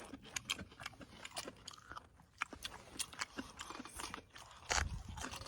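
Close-up chewing and crunching of crisp wild greens (dandelion), many irregular crisp crunches, with a louder bump near the end.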